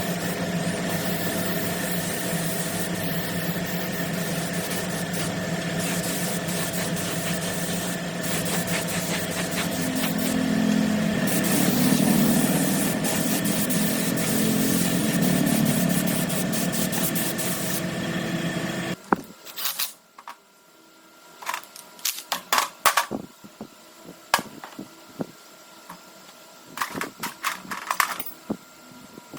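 A small motor running steadily for about nineteen seconds, swelling somewhat in the middle, then cutting off suddenly; after it, scattered sharp clicks and taps.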